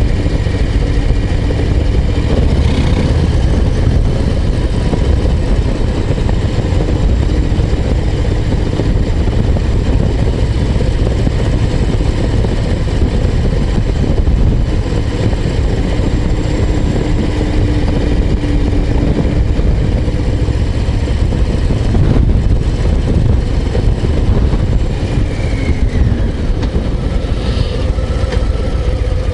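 Harley-Davidson Low Rider ST's Milwaukee-Eight 117 V-twin engine running while the motorcycle is ridden along a road. It is a steady low rumble that eases off a little near the end.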